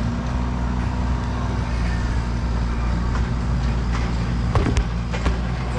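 An engine running steadily, with a few sharp knocks near the end.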